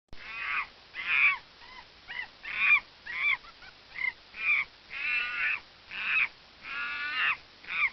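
Monkey calling over and over: a run of short, pitched calls, roughly two a second.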